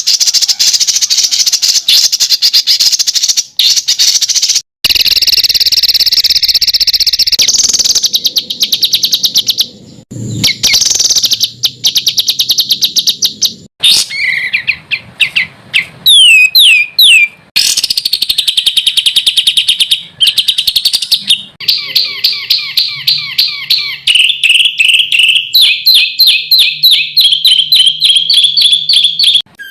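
Songbird song spliced into a masteran tutoring recording: fast, harsh, high-pitched 'tembakan' bursts of rapidly repeated notes that change abruptly every few seconds. A run of sweeping down-slurred whistles comes about halfway through, and the second half has rapid, evenly repeated chirps.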